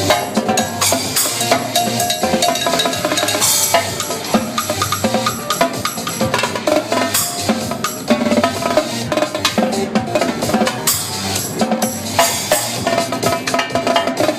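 Live drumming on a Mapex drum kit with Paiste cymbals, fast, dense strokes in a steady beat, played along with a dance music track.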